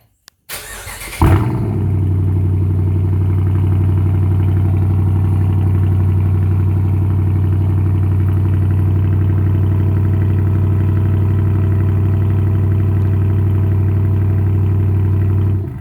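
Cold start of a Dodge Charger Daytona's 5.7 HEMI V8 through a mid-muffler-delete exhaust with Dynomax mini race bullets and the resonator cut out. The starter cranks briefly, the engine catches with a loud flare, then it settles into a steady, loud, deep idle. The sound cuts off near the end.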